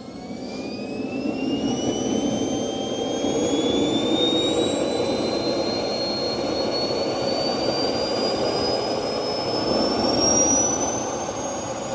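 RC jet's model turbine engine spooling up through its start sequence. A whine climbs steadily in pitch over a rushing roar that builds over the first few seconds and then stays loud.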